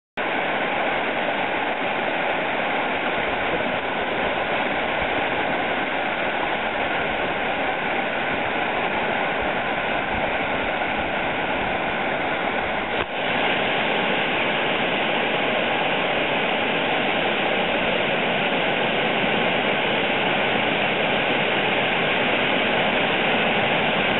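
Waterfall running: a steady, loud rush of falling water with no rhythm or pitch. It briefly drops out about halfway through and comes back slightly louder.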